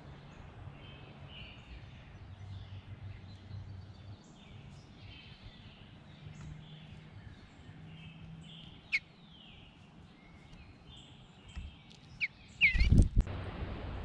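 Wild birds singing in woodland: many faint short chirps and calls keep going throughout. A single sharp click comes about nine seconds in, and a cluster of loud knocks with a sharp call comes near the end.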